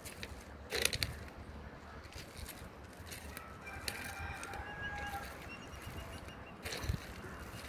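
A bird calling several times in the middle, in short pitched notes, over steady outdoor background noise, with a short thump about a second in and another near the end.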